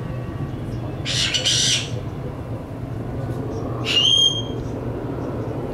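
Bird squawks: a harsh, scratchy call about a second in, then a sharper squawk that holds a high note just before four seconds. A steady low rumble runs underneath.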